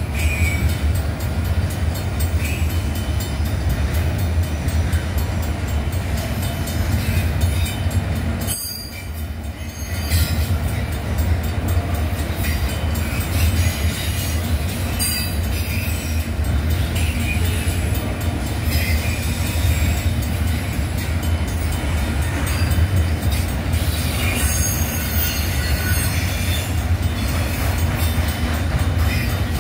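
CSX freight train's autorack and boxcars rolling past on the rails: a steady, loud rumble of wheels on track, with a brief lull about nine seconds in.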